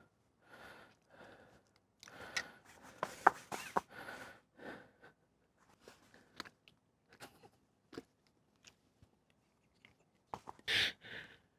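A man imitating a dachshund with his mouth and nose: irregular short breathy puffs and sharp clicking mouth noises, with a louder pair of puffs near the end.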